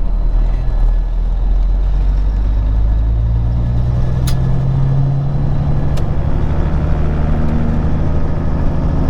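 Peterbilt 379 truck's diesel engine running, heard from inside the cab, rising in pitch over a few seconds as it revs up and then holding steady. Two short sharp clicks partway through.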